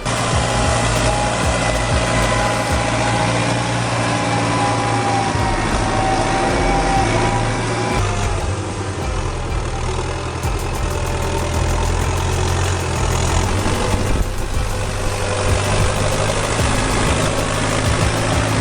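Heavy engine of a logging vehicle running steadily under load, a continuous low hum with a wavering higher whine over it.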